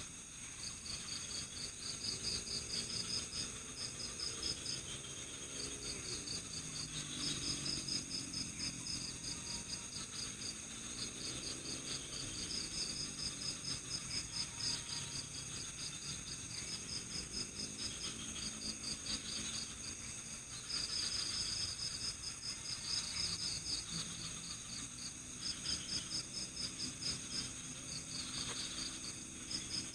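Night forest insect chorus: crickets chirping in repeated trains of rapid pulses, with short gaps between groups, over a steady high-pitched insect trill.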